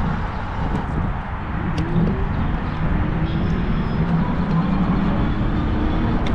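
Wind rumbling on the microphone of a Cyrusher Kommoda fat-tire e-bike being ridden along at speed, with a faint whine slowly rising in pitch and a few light clicks.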